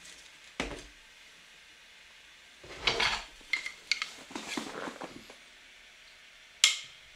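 Light clatter of small hard objects: a knock, a cluster of clicks and rattles in the middle, and another sharp knock near the end, with pauses between.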